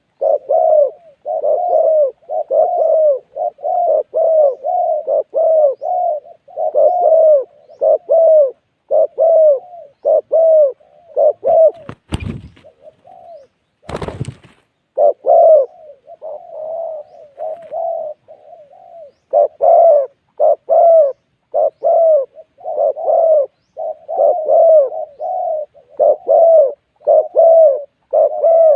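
Spotted doves cooing, a steady run of short low coos, one or two a second. Two sharp knocks sound about twelve and fourteen seconds in, during a short lull in the cooing.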